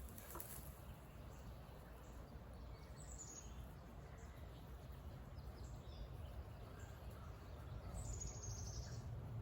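Low steady buzzing hum of honeybees around an open hive, with two short falling bird chirps, one about three seconds in and one near the end.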